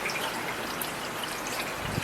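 Heavy rain falling steadily as a dense, even hiss, with individual drops striking close by.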